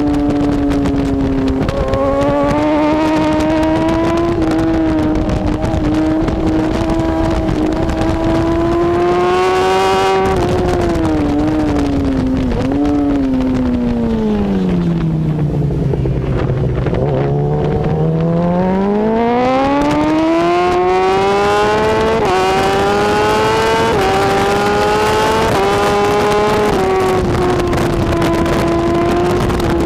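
BMW S1000RR superbike's inline-four engine at racing revs, climbing and then dropping back several times as it shifts up through the gears. About twelve seconds in the revs fall away steeply as the bike slows hard for a corner. It then accelerates again, rising steadily with several more upshifts before settling at high revs.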